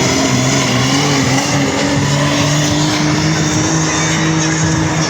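Loud pulling-vehicle engine running hard at a steady pitch during a pull, with a dense roar of exhaust and machinery noise.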